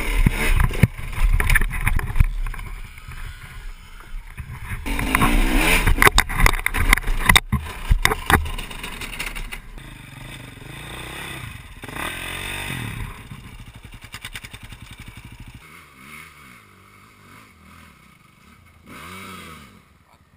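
Dirt bike engines revving hard, pitch rising and falling, with scattered knocks and clatter. The sound drops to a fainter engine after about 15 seconds.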